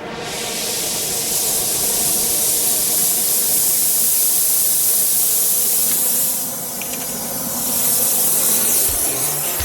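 Oxy-acetylene torch with a large heating tip burning with a steady, loud hiss, easing off for about a second two-thirds of the way through and then coming back.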